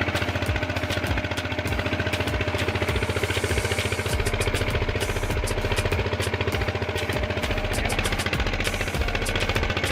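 Stationary diesel engine running steadily, with an even, regular knocking beat from its firing strokes.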